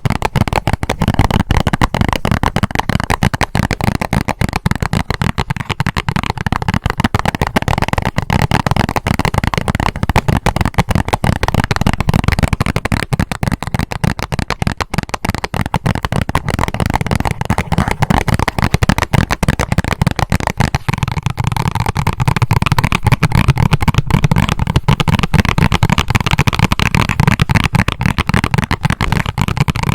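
Fast tapping on a band-aid box: a dense, unbroken run of quick small clicks.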